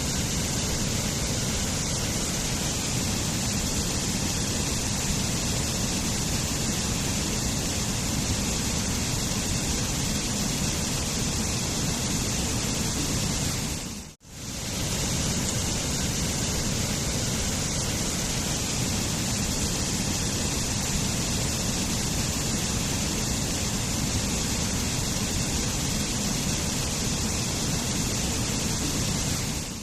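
Waterfall rushing steadily. About halfway through, the sound briefly fades out to near silence and comes straight back.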